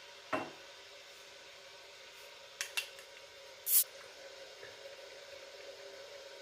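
Household handling sounds: a light knock, then two short clicks, then a brief hiss like one squirt of a spray bottle, the loudest sound. A faint steady hum underneath.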